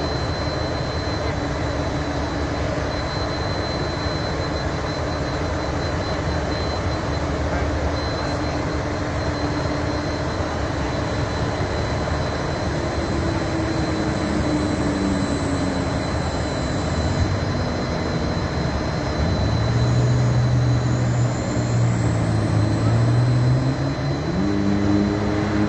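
A heavy fire truck's engine comes in over a steady rushing background. From about halfway its note rises and falls as it manoeuvres, growing louder near the end.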